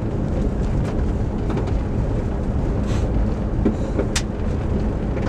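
Steady low rumble of a running engine, like farm machinery, with a few faint clicks over it.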